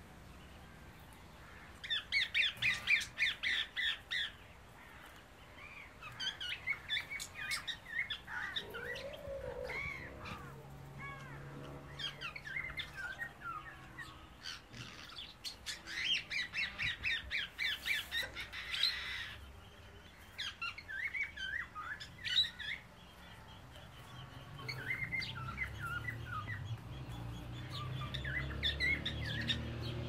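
Birds chirping in quick runs of notes, in about five separate spells a few seconds apart; the loudest run comes about two seconds in.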